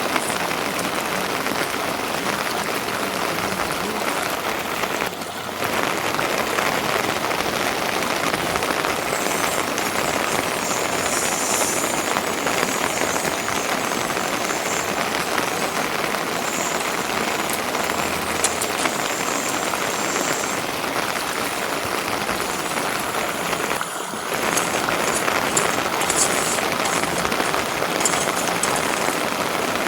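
Steady rain falling, an even hiss that briefly drops twice.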